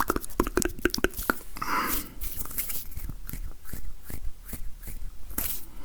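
ASMR hand sounds close to the microphone: quick, irregular clicks and taps, thickest in the first second and a half, with a brief rub about two seconds in.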